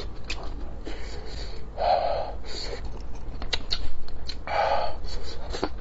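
A person chewing a mouthful of braised fish with roe close to the microphone: wet mouth clicks and lip smacks, with two short breaths out about two and four and a half seconds in.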